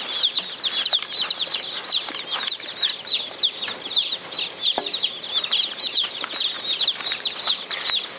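A brooder full of Cornish Cross meat chicks peeping continuously: many short, high cheeps overlapping, each dropping in pitch, several a second.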